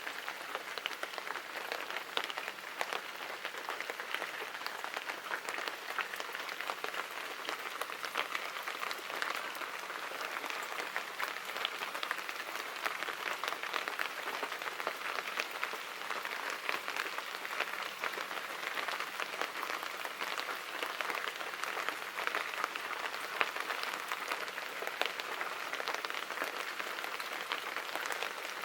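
Steady rain falling, a dense even hiss made of many small drop ticks, with no let-up.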